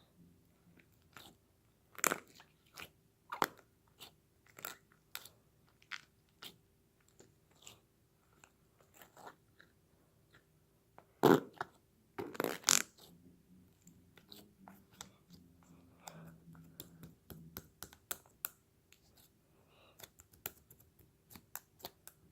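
A spoon working a sticky slime, giving irregular wet clicks and crackly squishes, with two louder pops about halfway through.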